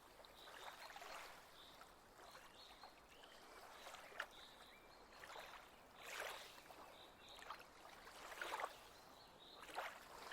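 Faint water lapping gently against a lakeshore, in soft irregular splashes every second or two.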